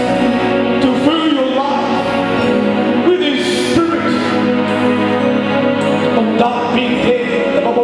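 Gospel worship music: sustained instrumental backing with a voice singing over it.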